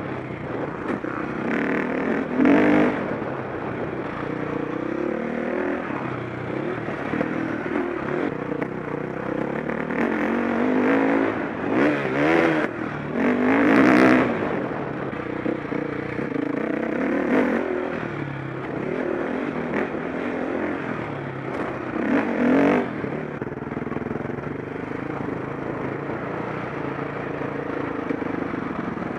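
KTM 525 SX four-stroke single-cylinder motocross engine being ridden, its pitch rising and falling with the throttle, with several loud bursts of revving: a few seconds in, twice around the middle, and again past two-thirds of the way.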